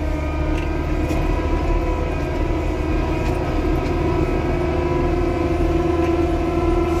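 Payloader's diesel engine running steadily under load, heard from inside the cab as a low drone with a steady whine over it, plus a few faint knocks.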